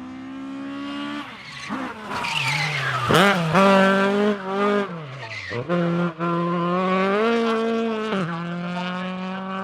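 Rally car engine running hard on track, the revs rising and dropping several times through gear changes and lifts off the throttle. There is a sharp bang about three seconds in.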